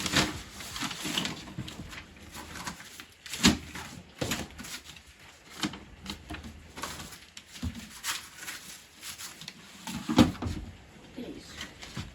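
Irregular sharp knocks and clatters of objects being handled and moved about, the loudest about a third of the way in and again near the end.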